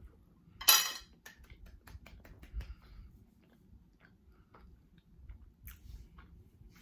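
Close-miked chewing of a mouthful of mac and cheese: soft, wet mouth clicks throughout. About a second in, a single sharp clink as a metal fork is set down on a ceramic plate.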